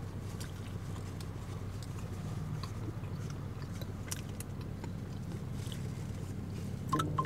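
Close-miked chewing of a slice of pizza with the mouth closed, with soft wet clicks and smacks, over the steady low hum of the car's running engine and heater. A brief vocal sound comes near the end.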